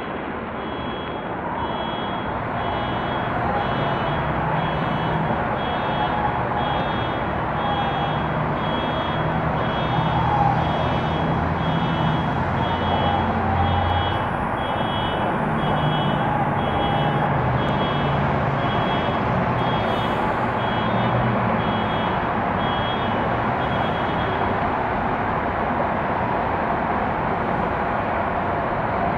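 An electronic beeper, most likely a vehicle's reversing alarm, sounds a short high double-toned beep about once a second, then stops, over steady outdoor city noise. No fireworks bangs are heard.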